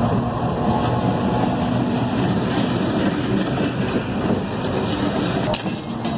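Steel train wheels rolling slowly over the rails, a steady loud rumble, with one sharp click about five and a half seconds in.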